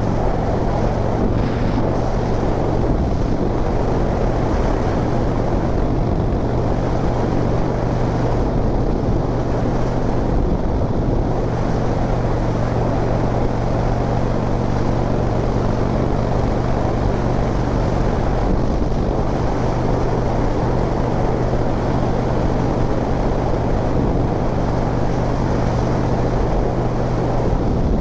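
Harley-Davidson V-twin motorcycle engine running at a steady road speed, with wind noise over the microphone.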